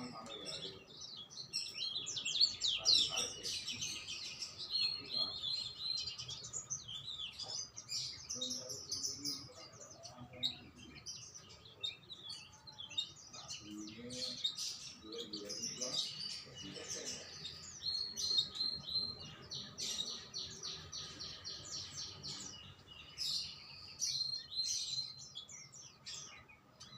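Songbirds chirping and singing almost without pause, in quick trills and runs of repeated high notes.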